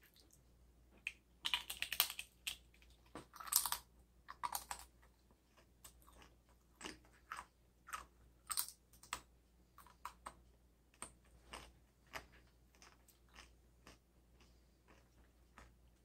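Tortilla chip with pico de gallo being bitten and chewed. Loud crunches come in the first few seconds, then softer chewing crunches follow about one or two a second and fade out.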